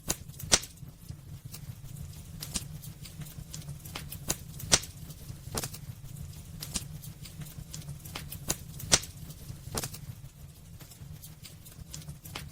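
Wood fire crackling in a fireplace: irregular sharp pops and snaps over a low steady rumble. The loudest pops come about half a second in, near five seconds and near nine seconds.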